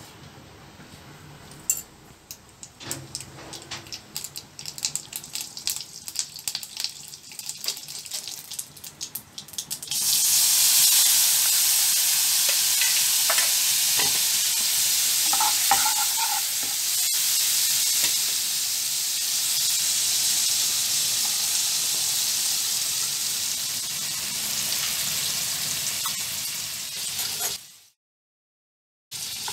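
Mustard seeds spit and pop with scattered sharp clicks in hot oil in a non-stick pan. About ten seconds in, a wet chilli-turmeric masala paste hits the oil and sets off a loud, steady sizzle that cuts off suddenly near the end.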